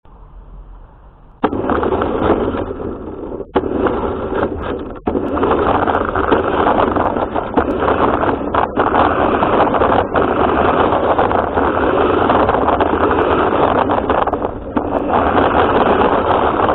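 RC car driving, heard through its own onboard camera: a loud, rough running and rattling noise that starts about a second and a half in, with a couple of brief breaks.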